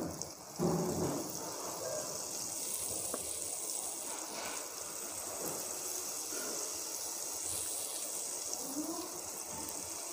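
Semolina malpua batter deep-frying in hot oil, a steady sizzle, louder for a moment in the first second as fresh batter is ladled in.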